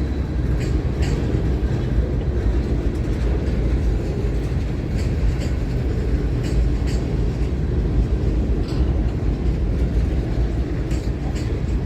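Train cars rolling past with a steady low rumble and clickety-clack: pairs of wheel clicks over rail joints, repeating every second or two.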